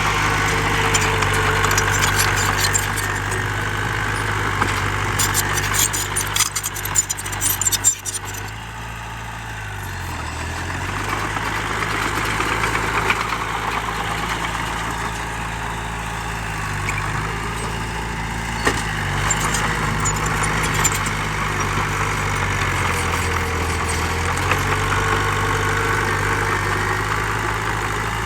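Heavy diesel engine of earthmoving machinery running steadily. Its pitch dips briefly a few times, as if pulled down under load. A clattering rattle comes over it for a few seconds early in the stretch.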